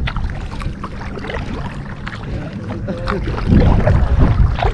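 Kayak paddling: scattered paddle splashes and water drips, with wind buffeting the microphone, louder from about three and a half seconds in.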